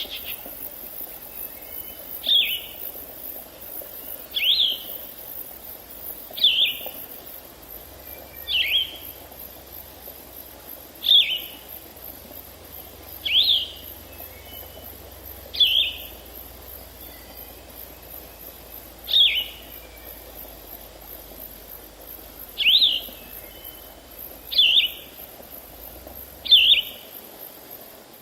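A songbird repeating one short, sharp sweeping call, eleven times at about two-second intervals, over a steady high insect buzz.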